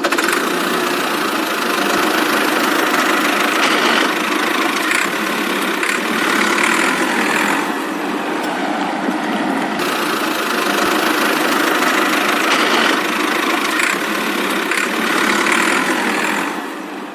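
Miniature DIY tractor's motor running steadily, a continuous engine-like drone with no pauses or changes in pace.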